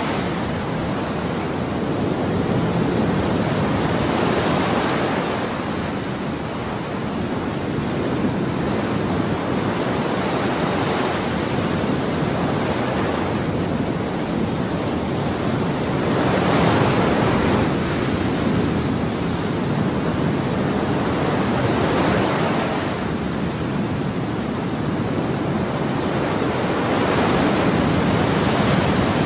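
Ocean waves breaking and washing on a shore, a continuous rush of surf that swells with each breaker every five or six seconds.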